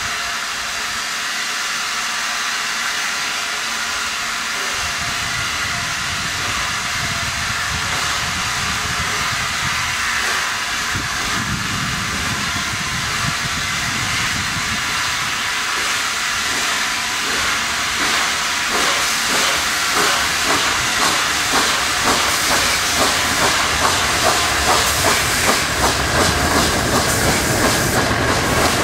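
LNER Peppercorn A1 Pacific steam locomotive 60163 Tornado hissing steam steadily. From about halfway, rhythmic exhaust beats come in and grow louder toward the end.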